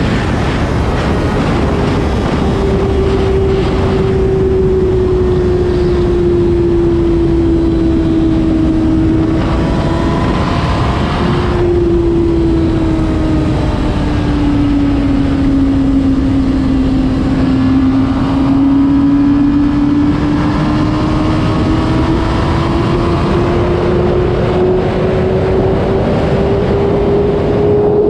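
2026 Honda CBR600RR's inline-four engine running while riding, its pitch sinking slowly, breaking off briefly about ten seconds in, sinking again, then climbing steadily through the last ten seconds. Wind rush runs underneath.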